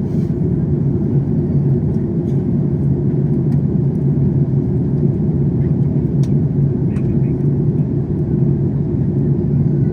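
Steady airliner cabin noise inside a Boeing 767-400ER in flight: a constant rumble of engines and airflow with a low hum, and a few faint clicks.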